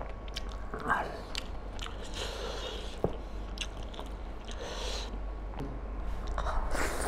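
Close-miked wet chewing and mouth sounds of someone eating mutton curry and rice by hand, with many small clicks, a squelch of curry-soaked food and one sharp click about three seconds in.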